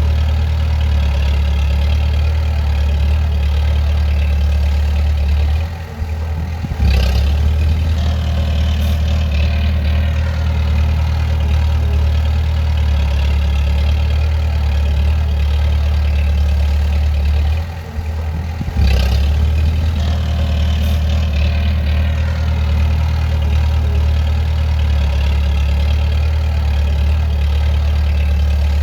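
Bulldozer's diesel engine running steadily with a deep drone. Twice, about 6 s and about 18 s in, the sound drops briefly and then returns louder.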